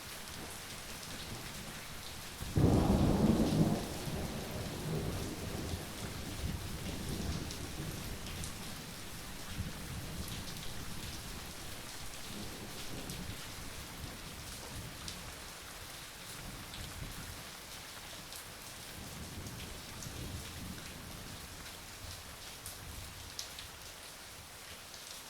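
Steady rain falling, with scattered drops ticking. About two and a half seconds in, a loud clap of thunder breaks out and rolls away over several seconds, and fainter rumbles of thunder come later.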